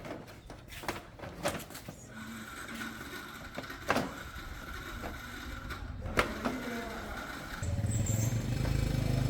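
Repair-shop knocks and clinks, then a motorcycle engine that starts running abruptly about three-quarters of the way in and is the loudest sound.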